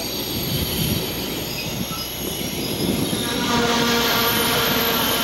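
TGV high-speed trainset pulling out of a station platform, its cars rolling past with a steady rumble of wheels on rail. About three seconds in, a steady whine of several tones comes in and the sound grows a little louder as the train gathers speed.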